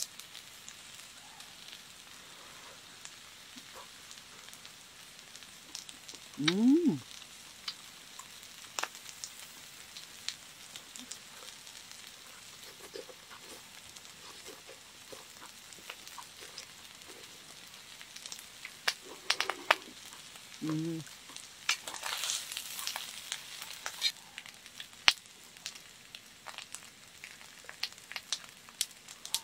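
Beef intestines and minari sizzling on a griddle pan, with metal tongs and chopsticks clicking against the pan and a steel bowl. A short, loud rising pitched sound comes about six seconds in.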